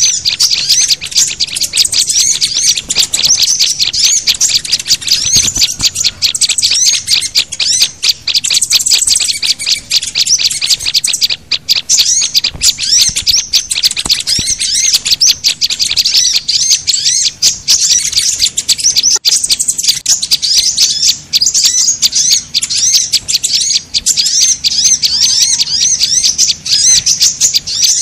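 Dense, continuous chorus of rapid high-pitched chirps and trills from small songbirds, a mixed luring recording of sunbirds, white-eyes, prinias and flowerpeckers calling over one another, meant to draw small wild birds in.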